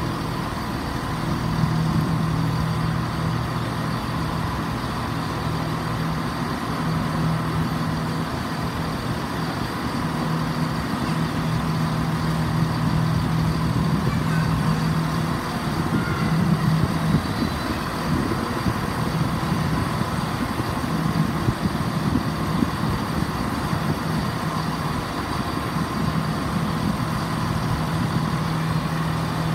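Steady low hum of a train standing at the platform with its engine or power running.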